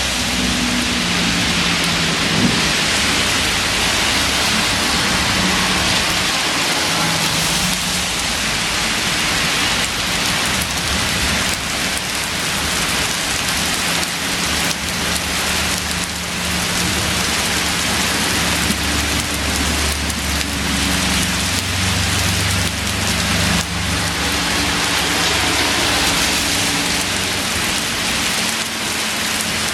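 Heavy thunderstorm downpour: rain pouring steadily and hard, with a low rumble that comes and goes underneath.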